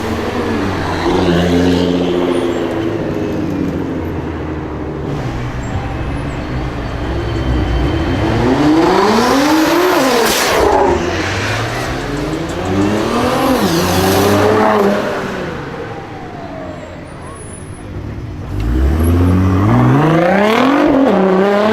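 Nissan GT-R R35's twin-turbo V6 under hard acceleration. Its pitch climbs steeply and drops away several times, loudest in the last few seconds.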